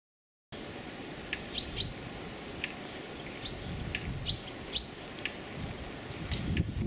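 Small birds chirping outdoors: short, sharp calls, several ending in a brief high held note, coming every half second to a second. Underneath is a steady low rumble. The sound begins about half a second in, after silence.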